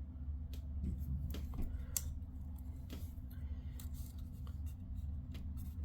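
Small, sharp plastic clicks and taps as a model train tank car is handled and turned in the hands, coming irregularly over a steady low hum.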